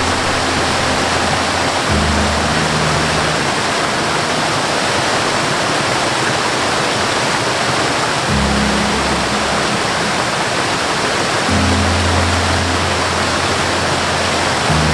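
Steady roar of a waterfall, an even rush of falling water, with low held notes of background music coming and going over it.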